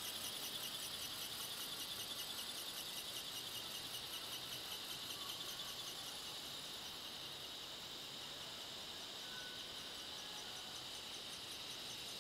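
Insects chirping in a steady, fast pulsing rhythm, easing off a little about halfway through.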